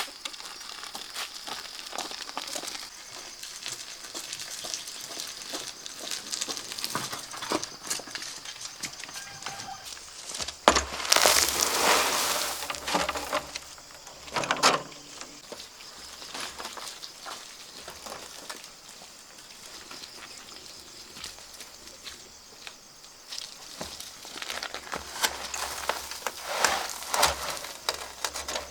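Shovel scraping and scooping a sand and cement mix, with scattered clicks and scrapes and a loud rush of material being tipped or poured about eleven seconds in.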